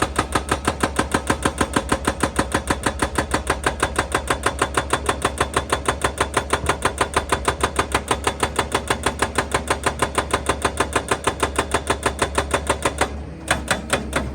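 Excavator-mounted hydraulic breaker hammering rock, an even pounding of about six blows a second that stops about thirteen seconds in.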